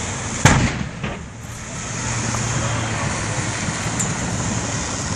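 Steady roadside traffic and fire noise, with one sharp bang about half a second in and another at the very end.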